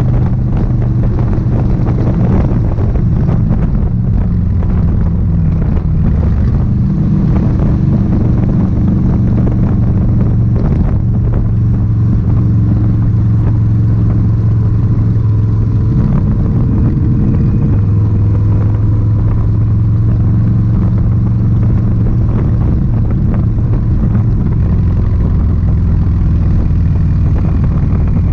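Indian Sport Chief's V-twin engine running under way, a steady low note that changes pitch a few times as the throttle and gears change.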